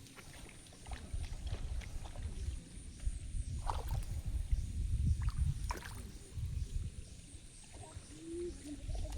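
Shallow water sloshing and splashing with scattered small knocks, over a heavy low rumble of wind on the microphone.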